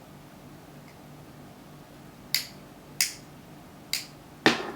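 Four sharp, short clicks in the second half, roughly half a second to a second apart, the last one the loudest and fuller, over a faint steady low hum.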